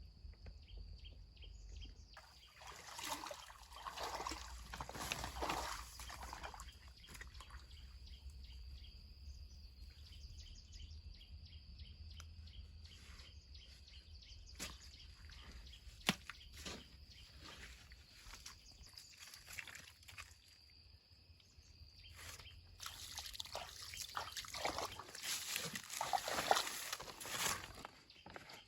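Water sloshing and splashing in two irregular spells, a few seconds in and again near the end, with a single sharp click in between, over a steady high tone.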